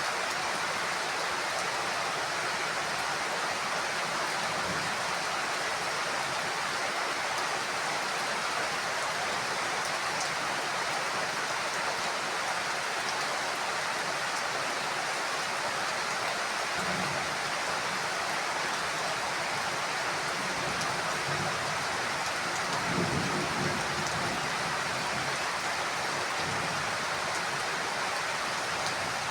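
Heavy rain falling steadily on a house roof, with two low rolls of thunder in the second half, the later one the louder.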